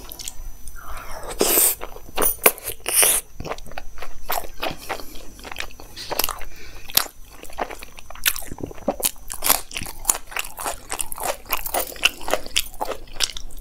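Close-up mouth sounds of a person chewing a bite of aloo paratha dipped in yogurt: wet chewing with many small clicks and smacks, a few louder ones in the first seconds.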